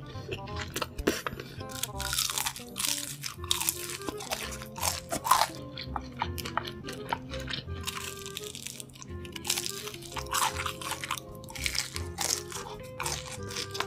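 Close-miked crunchy bites and chewing of crispy hash browns, many sharp crunches in quick irregular succession, over background music.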